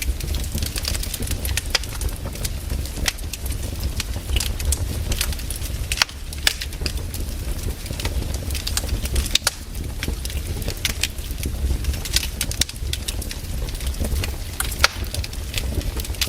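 Firewood burning in a fire, crackling and popping irregularly over a low steady rumble.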